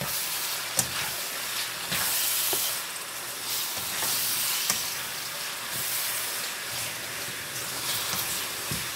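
Small chicken pieces and sliced onions sizzling in a nonstick frying pan in their own juices as they are stirred and tossed with a slotted spatula. The sizzle swells in waves every second or two as the pieces are turned, with a few light taps of the spatula against the pan.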